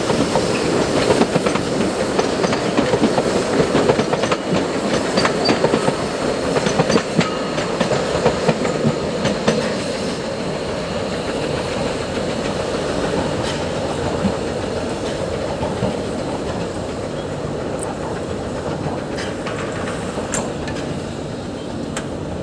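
Narrow-gauge steam railway train running, its wheels clicking over the rail joints; the sound is louder for the first half, then settles lower and steadier.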